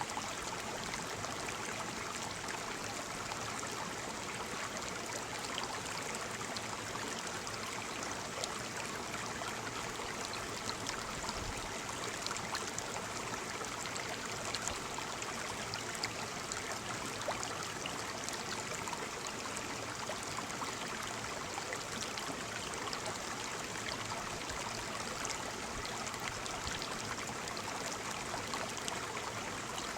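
Small waterfall splashing and trickling, with a steady rush of falling water.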